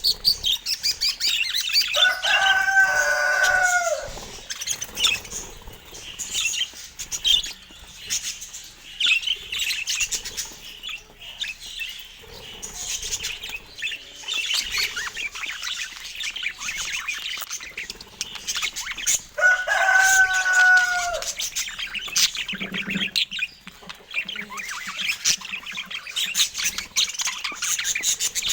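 Budgerigars chattering with continuous high chirps and warbles. Twice, a few seconds in and again about two-thirds of the way through, a lower, drawn-out call of about two seconds rises over the chatter.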